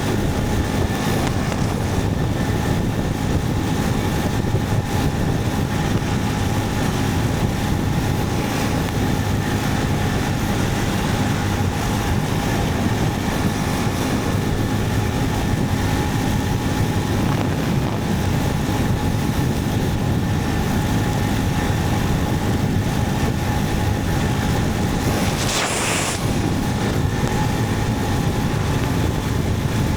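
Motorcycle riding at a steady speed: the engine runs evenly under a constant rush of wind noise. A brief hiss breaks through near the end.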